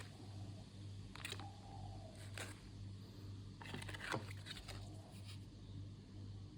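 Handling of ration packaging: a few short scrapes and clicks, the busiest stretch in the middle, over a low steady hum.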